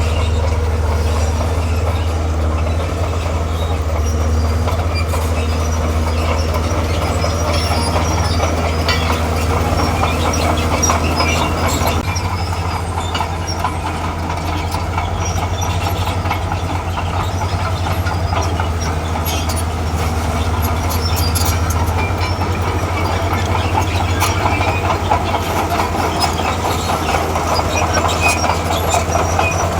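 Komatsu D41P crawler bulldozer working: its diesel engine runs steadily under the continuous clatter and squeal of its steel tracks.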